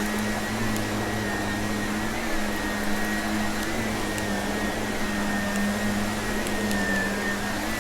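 Vacuum cleaner running steadily with a high whine, picking up crunchy debris that clicks now and then.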